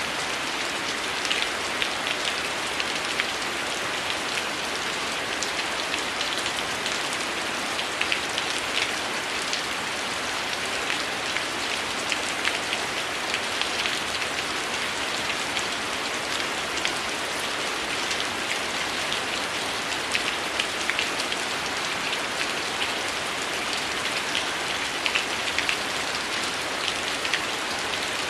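Heavy rain falling steadily, a dense even hiss, with many short sharp ticks and pops scattered throughout.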